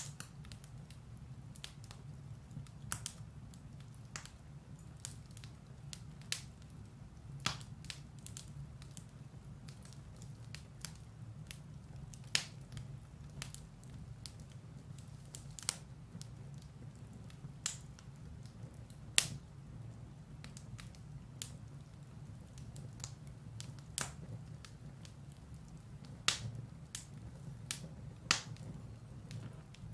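Firewood burning in a fireplace: a steady low rumble of the flames with sharp crackles and pops at irregular intervals, a few of them louder than the rest.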